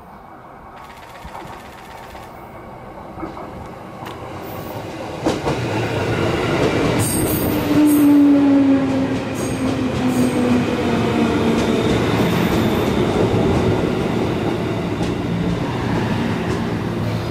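JR East 205 series 500 subseries electric train pulling into the station: it grows louder from about four seconds in, then a whine falls in pitch as it slows, with a few sharp high squeaks and clicks around the loudest moment.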